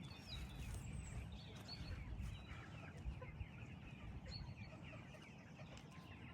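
Birds calling in scattered short chirps, over a steady low rumble.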